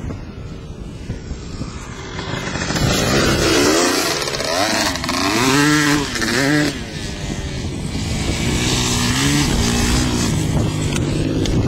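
Motocross dirt bike engines revving, the pitch rising and falling several times in quick throttle swells, loudest around the middle.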